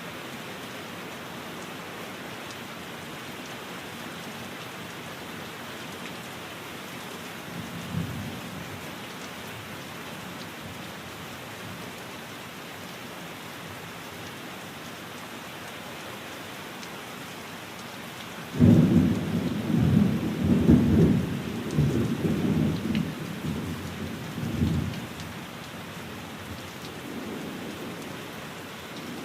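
Steady rain falling, with thunder: a short low rumble about eight seconds in, then a sudden loud clap about two-thirds of the way through that rolls on for several seconds before dying away, and a faint distant rumble near the end.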